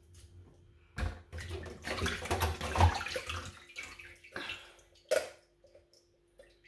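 Water running and splashing from a kitchen tap, starting about a second in and dying away after about four seconds, with a short knock just after five seconds.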